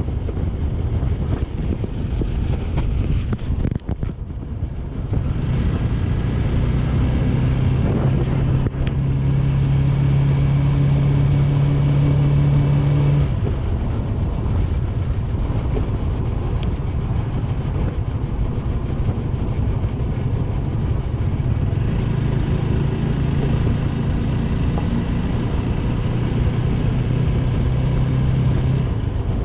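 Motorcycle riding along with wind buffeting the microphone. A steady engine hum grows stronger about six seconds in, eases off past the midpoint, and comes back strongly near the end.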